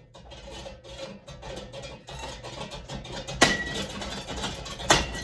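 A ceiling fan's metal blade arms and housing being struck and wrenched, rattling and clattering, with two loud metallic impacts about three and a half seconds in and near the end that leave a brief ring.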